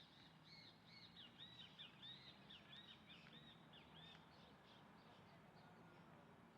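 Faint song of a small bird: a quick run of repeated high chirping notes, about three a second, lasting some four seconds, over a faint steady low hum.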